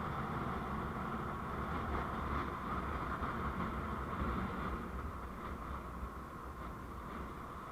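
Vehicle on the move, heard through a dashcam: a steady low rumble of engine and road noise with a constant mid-pitched hum, easing off a little in the last few seconds.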